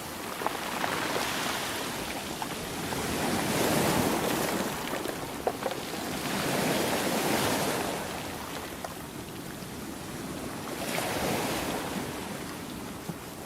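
Ocean waves breaking and washing up the shore, the surge rising and falling about every three to four seconds.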